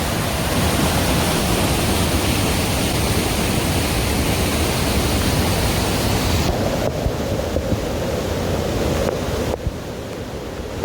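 Heavy rain making a steady, loud rushing hiss. About two-thirds of the way in the sound turns duller, and near the end it drops quieter.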